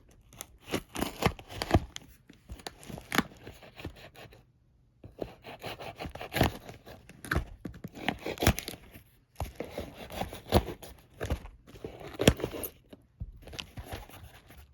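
Cardboard and paper packaging being torn and ripped open by hand, in irregular bursts of tearing and crinkling with short pauses between.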